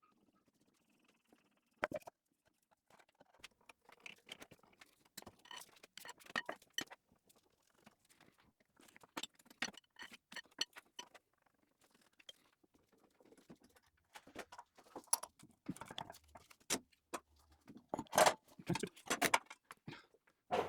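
Irregular light clicks, taps and clinks of hand tools and metal parts being handled while the grinder's spindle assembly is unbolted, with short quiet gaps. A few louder knocks come near the end.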